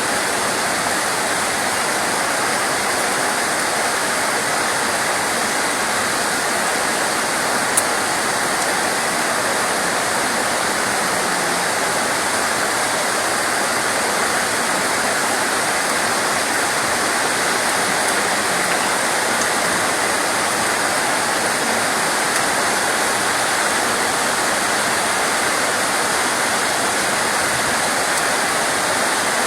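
Steady heavy rain: a dense, even hiss without let-up, with one small sharp click about eight seconds in.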